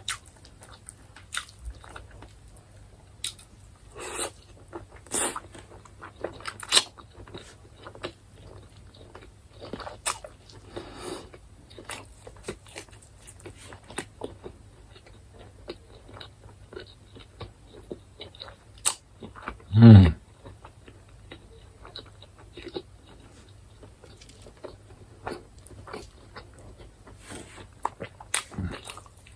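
Close-up chewing and biting of chicken: many short wet smacks and clicks of the mouth and teeth, uneven in rhythm. About two-thirds of the way through comes one short, loud, low vocal sound that falls in pitch.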